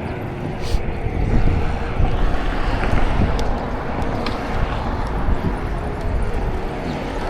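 Wind buffeting a bike-mounted action camera's microphone while riding, a dense, gusty rumble with a few faint clicks.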